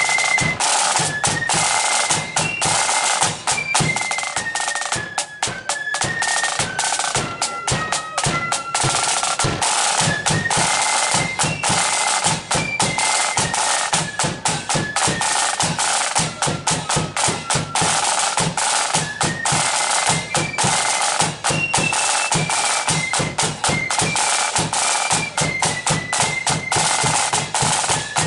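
Marching flute band playing a tune: a high flute melody over rapid snare drum rolls and a bass drum beat.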